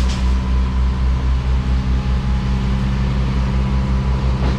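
Large vehicle engine idling steadily, a low even drone.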